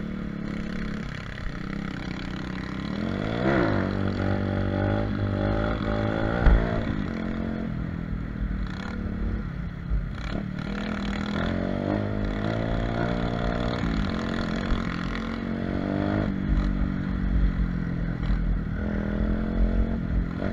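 125cc mini motocross pit bike engine running under way, its pitch climbing and dropping several times as it revs up and eases off, with a low rumble and some rattle underneath.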